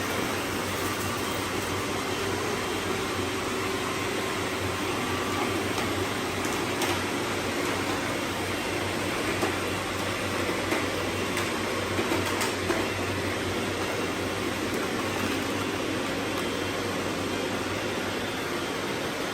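Robot vacuums running: a steady whir of their suction fans and brushes, with a few small clicks.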